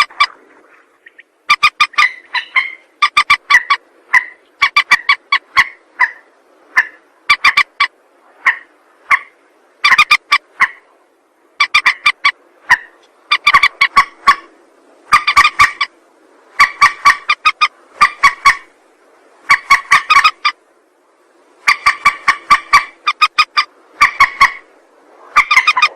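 Lure-call recording of a mandar, a rail or swamphen: harsh, clicking call notes given in quick bursts of several strokes each, repeated about every one to two seconds with short pauses between.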